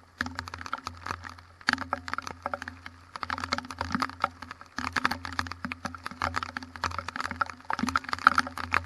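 Heavy rain during a thunderstorm, drops striking hard and close in a dense, uneven pattering of ticks.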